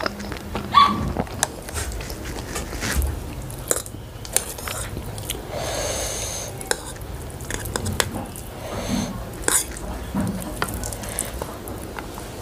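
Close-up chewing of stir-fried instant noodles, with a metal fork clicking and scraping against ceramic plates as noodles are twirled up.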